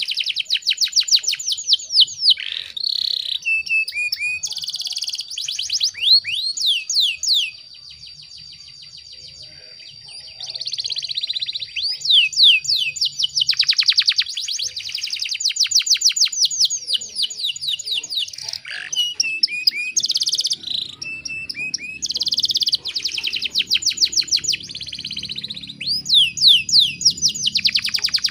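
Domestic canary singing: fast rolling trills of repeated sweeping notes, phrase after phrase, with a pause of a few seconds about a third of the way through.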